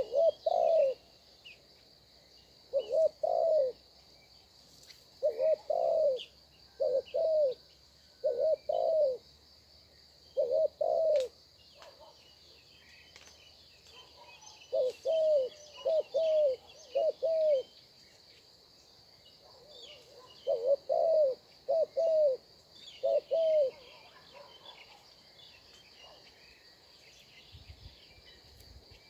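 A dove cooing in repeated short phrases of low notes, some in pairs and near the middle and end in runs of four or five. Faint small-bird chirps and a steady high insect buzz run behind it.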